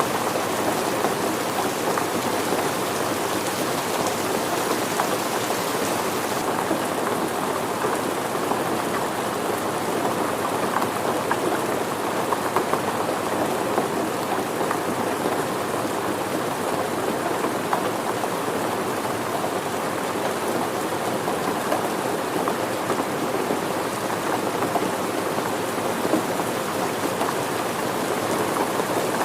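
Steady, dense rainfall: an even patter of many drops. The higher hiss softens a little about six seconds in.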